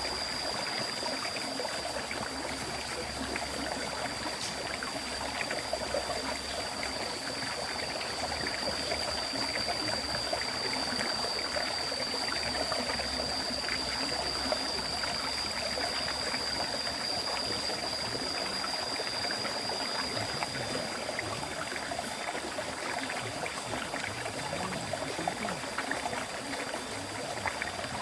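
River stream flowing: a continuous, even rush of moving water with no breaks. A thin, steady high-pitched tone sits above the water and fades out about three-quarters of the way through.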